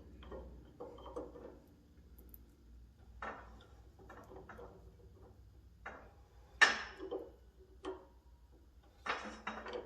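Scattered clinks and knocks of hand tools against metal parts of a hydraulic cylinder, about half a dozen separate strikes with quiet gaps between, the sharpest one about two-thirds of the way through.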